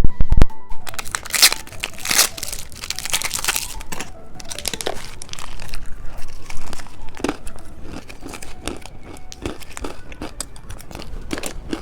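Plastic candy packaging being torn open and crinkled by hand, a dense run of crackling and rustling, with a couple of loud knocks at the very start.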